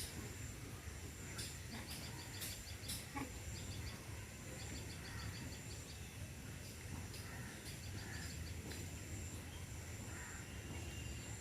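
Small birds calling in short bursts of rapid, high chattering notes, repeated several times, over a steady high-pitched whine and low rumbling background noise. A few sharp clicks sound in the first few seconds.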